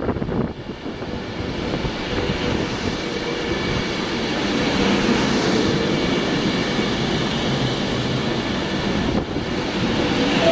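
Train moving through the station: a steady rumble of wheels and traction equipment with a faint held whine, building over the first few seconds and then holding.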